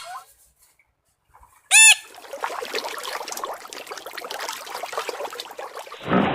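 A chicken gives one short, loud squawk, rising and falling in pitch, nearly two seconds in, after a brief quiet gap. It is followed by a steady, busy mix of fainter clucking and clicking flock noise.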